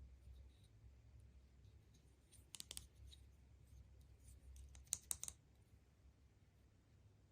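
Faint clicking from hands handling surprise-egg packaging and small plastic toys. There are two short clusters of sharp clicks, about two and a half seconds in and again about five seconds in, over a low steady hum.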